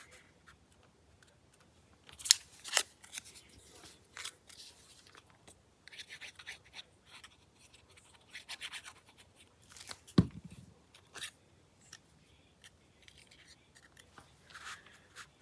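Scissors snipping paper in short, irregular cuts, with paper rustling between them. There is a dull knock about ten seconds in.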